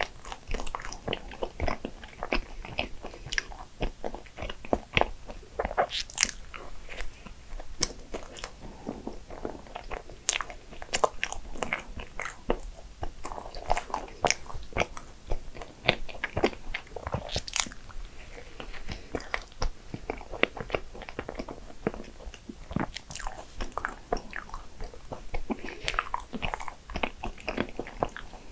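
Close-miked chewing and biting of a soft, cream-filled maritozzo bun: irregular wet mouth clicks and smacks, with louder bites now and then.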